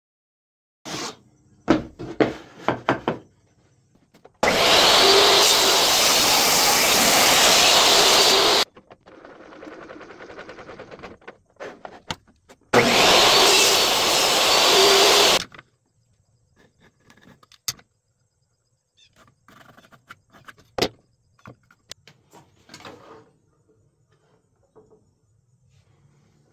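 A power tool working wood in two steady bursts, the first about four seconds long and the second about three, with knocks and clicks from handling the wood before, between and after them.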